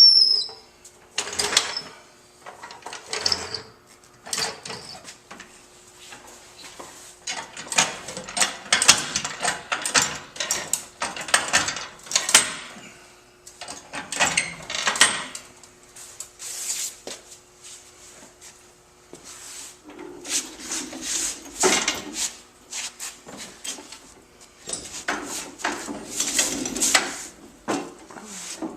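A jack being positioned and worked under a car: repeated spells of metallic clicking, scraping and clanking, some quick runs of strokes, coming and going through the stretch.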